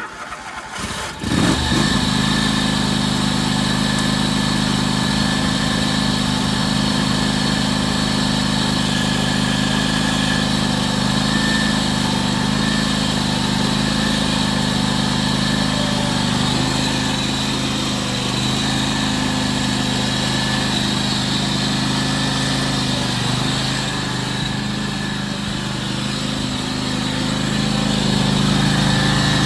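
John Deere X540 garden tractor's 26-horsepower liquid-cooled Kawasaki V-twin engine cranked by its starter and catching within about a second and a half. It then runs steadily, a little louder near the end.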